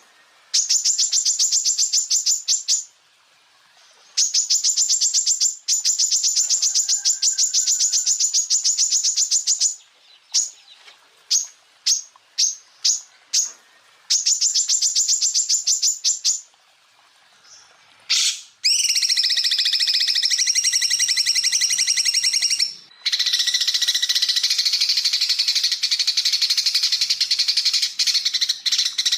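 Songbird song from a masteran training recording: bursts of very fast, high repeated notes, some a fraction of a second and some running several seconds, with short gaps between. About two-thirds of the way in it changes to a continuous dense high trill on several steady pitches, broken once briefly.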